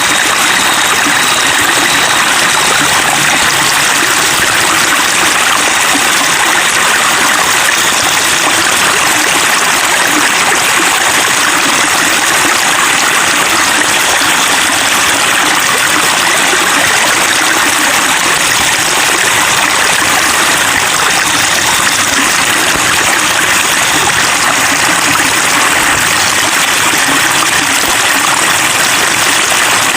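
Flowing water babbling steadily, an even rushing and trickling without a break.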